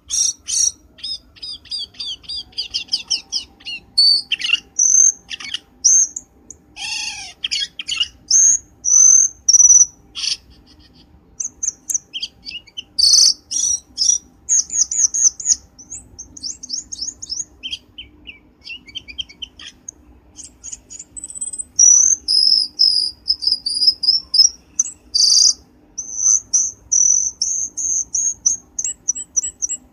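Cucak keling songbird singing, played as a bird-trapping lure call: a continuous run of bright, high chirps, whistles and quick trills, with a long string of fast repeated notes near the end. A faint steady hum lies underneath.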